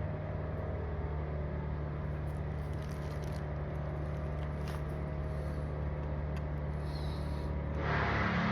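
A steady low mechanical hum, getting a little louder near the end.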